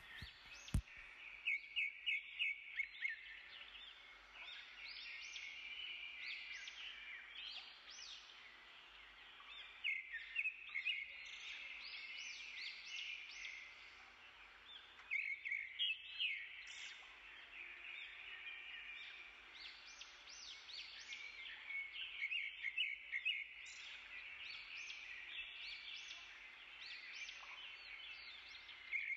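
Faint birds chirping: quick series of short, high notes in clusters that recur every several seconds, over a faint steady hiss.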